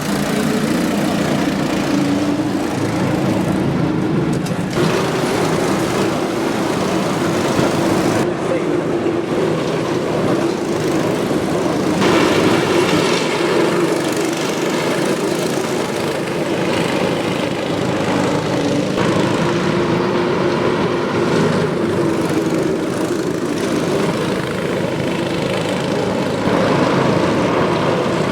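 Small single-cylinder cyclekart engines running hard as the karts race, a steady engine drone that rises and falls in pitch and changes abruptly every few seconds.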